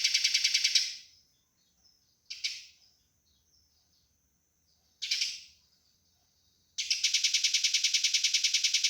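Eurasian tree sparrow's fast, harsh chattering fight call, a rapid run of repeated notes. It breaks off about a second in, two single short chirps come in the pause, and the rapid chatter starts again near the end.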